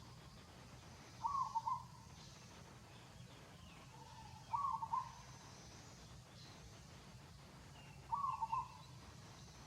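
A bird calling: a short, quick run of notes repeated three times, about every three and a half seconds, over a steady low background rumble.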